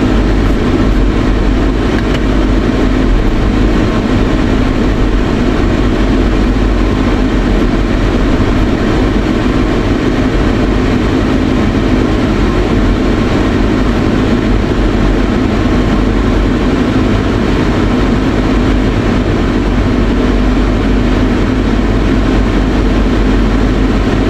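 Car engine running steadily at low speed, heard from inside the cabin as a constant hum.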